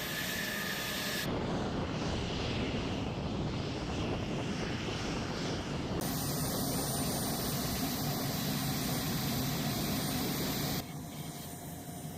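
Steady jet aircraft engine noise. Its character changes abruptly about a second in and again near the middle, and it drops a little in level near the end.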